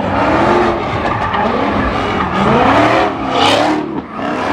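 A car doing a burnout: its engine revving up and down hard over squealing tyres, loudest about three and a half seconds in.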